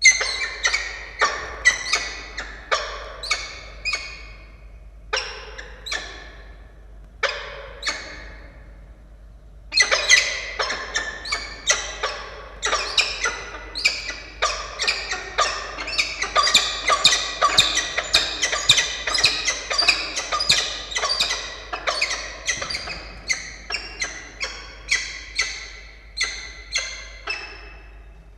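Peregrine falcons calling: a long run of short harsh repeated calls, about one a second at first, breaking off briefly about eight seconds in, then resuming faster and denser.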